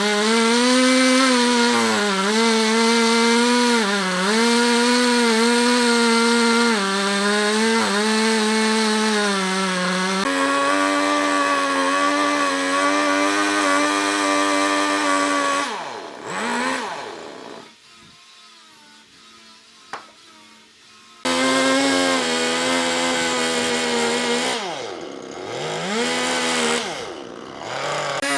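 Chainsaw running at high speed and cutting wood, its pitch dipping repeatedly as it loads up in the cut. About 16 s in it winds down to a much lower level for a few seconds, with a single click, then is back at full speed; near the end it twice falls away briefly and picks up again.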